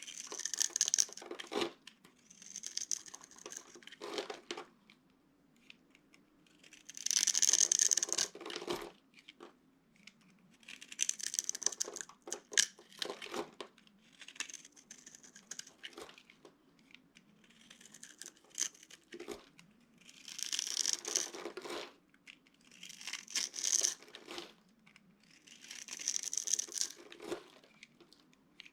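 Dry soap crunching and crackling as it is broken up. It comes in about a dozen short bursts, each a second or two long, with pauses between.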